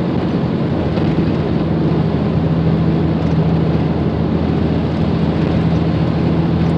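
Steady noise inside a moving car's cabin: road and tyre rumble with a steady engine hum.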